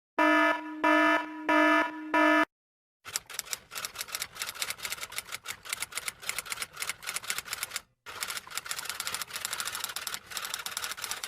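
Four electronic beeps in quick succession, followed by rapid, irregular key clicks of typing that run on for several seconds, with a brief pause partway through.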